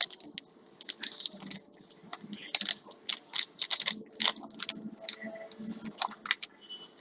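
Paper and plastic packaging rustling and crinkling as it is unwrapped and handled by hand: a run of quick, irregular crisp bursts, some in close clusters.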